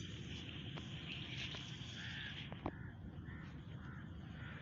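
Quiet outdoor park ambience: birds chirping repeatedly over a steady high hiss that thins out about halfway through, with a few faint clicks.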